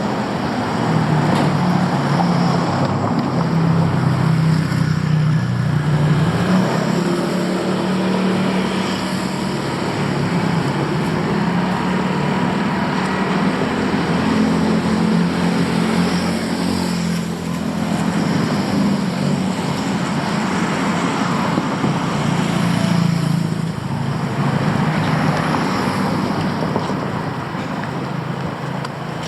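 City street traffic: vehicle engines running close by and passing, over a continuous rumble of road noise.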